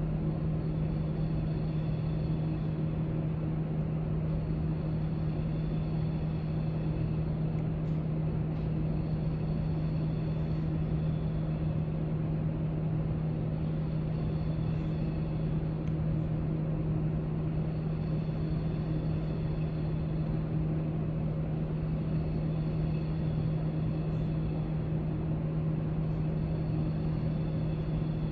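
Steady library background noise: a constant low hum over an even rush of air-handling noise, with a few faint small clicks.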